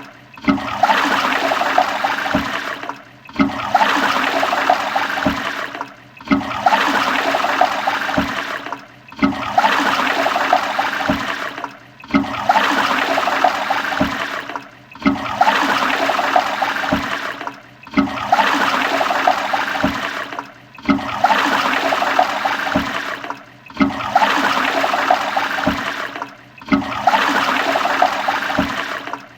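Toilet flush: rushing, gurgling water that drops out briefly and starts again about every three seconds, the same stretch repeating about ten times.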